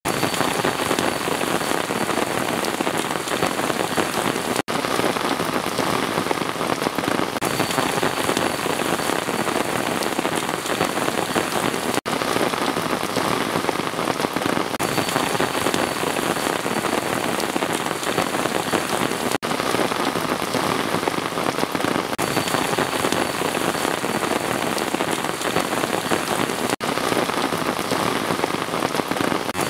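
Steady rain falling on a surface, a dense even patter of drops. The sound drops out for a split second about every seven seconds.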